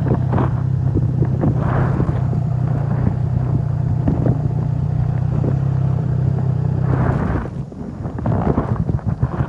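Triumph Scrambler 400 X's 398 cc liquid-cooled single-cylinder engine running at steady revs, then stopping about seven and a half seconds in. Wind noise and scattered knocks follow.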